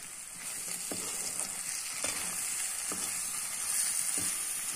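Spiced onion-tomato masala sizzling as it is fried and stirred in a metal kadhai, with a few light knocks of the perforated metal spoon against the pan.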